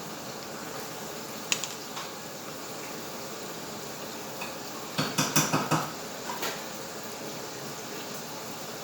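Kitchen dishes and utensils clattering: a single sharp clink about a second and a half in, then a quick run of about half a dozen clinks and knocks around five seconds in, over a steady hiss.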